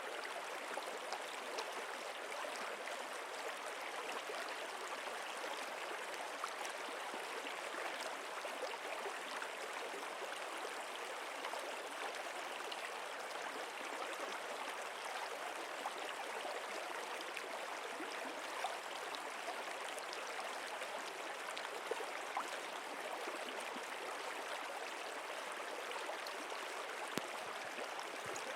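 A stream flowing steadily: an even babble of running water with small splashes scattered through it.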